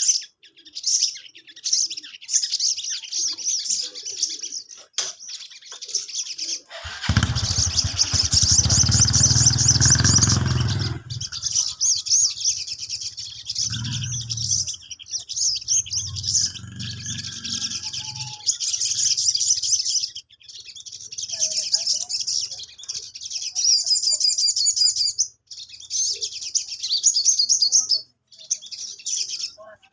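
Sogon (crimson sunbird) singing in rapid, high-pitched chattering runs of short notes, with brief pauses between phrases. A low rumble sounds underneath for a few seconds about seven seconds in.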